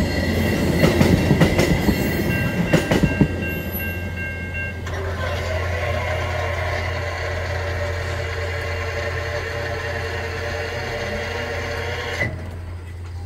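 VIA Rail passenger cars rolling slowly past, their wheels clicking over rail joints for the first few seconds. After that, the level-crossing bell rings steadily and cuts off suddenly near the end, as the crossing clears.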